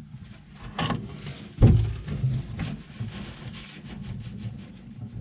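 Shovel mixing a batch of soil and compost: repeated scraping and knocks, with one heavy thump about one and a half seconds in.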